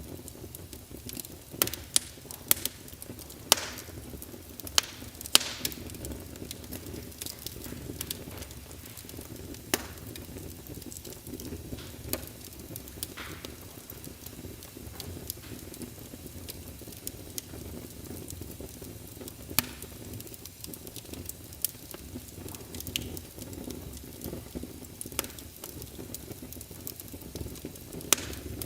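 Wood logs burning in a fireplace: irregular sharp crackles and pops, more of them in the first few seconds, over a steady low rush of the flames.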